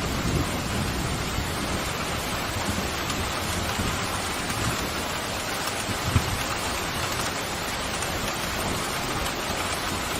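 Steady heavy rain falling, a dense even hiss. A low thunder rumble dies away at the start, and there is one short low thump about six seconds in.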